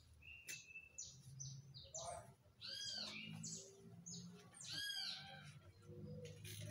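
Small birds chirping: many short, high notes, with a repeated arching call about three seconds in and again about five seconds in, over a faint low hum.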